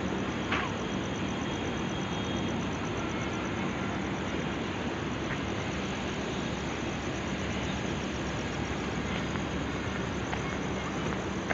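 Steady mechanical hum and drone from a standing passenger train, with a low steady tone and a faint pulsing high whine. There is a single short click about half a second in.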